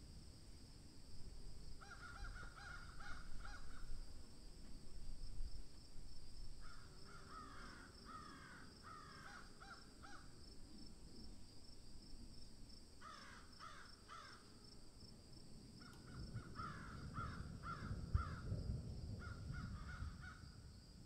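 A bird giving harsh, crow-like calls in four bouts of rapid notes, over a steady high-pitched whine.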